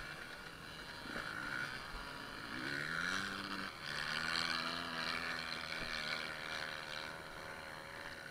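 Enduro motorcycle engine rising in pitch about three seconds in, then, after a brief dip, holding a steady note for several seconds.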